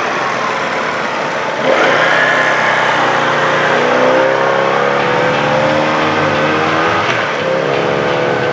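Small motorcycle engine running under way, its pitch falling and rising as it is ridden. The engine gets louder suddenly about two seconds in.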